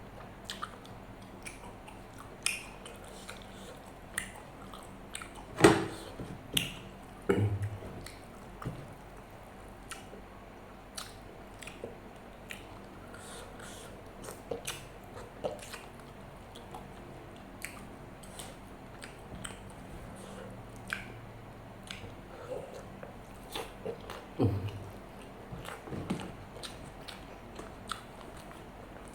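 Close-up eating sounds: wet chewing and lip smacks with many small clicks, and a few louder knocks, about six seconds in, about seven and a half seconds in and about twenty-four seconds in.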